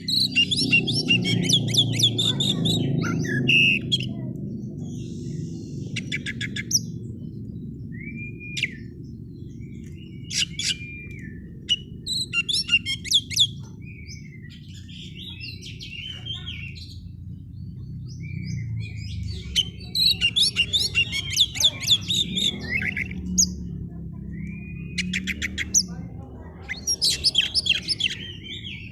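Oriental magpie-robin (kacer) in full song: bursts of rapid chattering trills and short whistled notes, phrase after phrase with brief pauses between.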